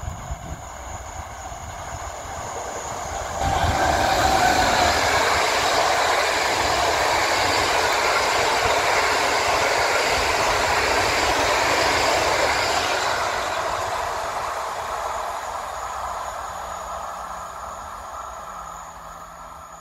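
Passenger train hauled by a Newag Griffin EU160 electric locomotive passing close by. Its wheel-on-rail noise jumps up suddenly about three and a half seconds in as the train reaches the spot, holds steady while the carriages roll past, then fades away over the last several seconds.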